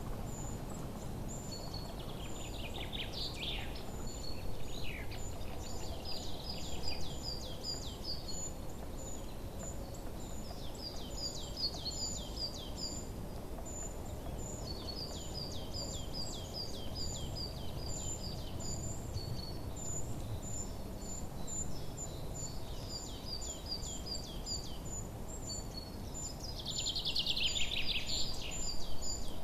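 Songbirds chirping and trilling: one bird repeats a short high chirp over and over while others sing rapid trilled phrases, the loudest of them shortly before the end, over a steady low outdoor background noise.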